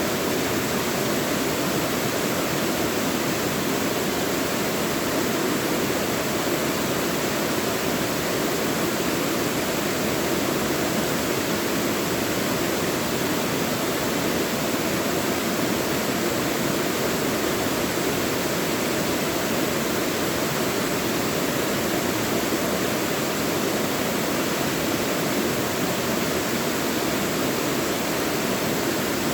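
Mountain stream rushing and splashing over rocks in a valley, a steady, unbroken noise of water.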